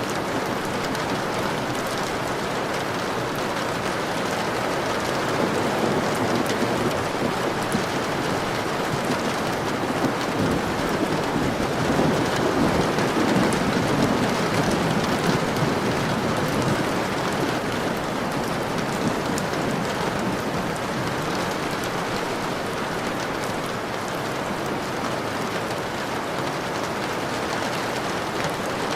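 Steady, heavy rainfall pattering on a surface, with a low rumble of distant thunder swelling up about a third of the way through and fading again.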